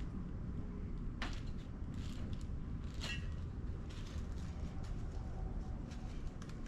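Small metal carburetor parts clicking and clinking as they are handled and fitted during reassembly, with two sharper clicks about one and three seconds in, the second briefly ringing. A steady low hum runs underneath.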